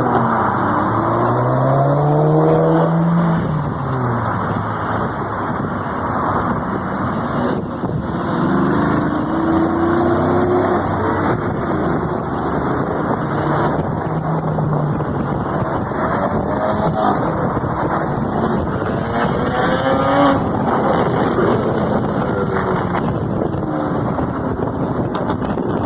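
High-performance car engines revving and accelerating past, their notes rising and falling repeatedly over steady road and tyre noise.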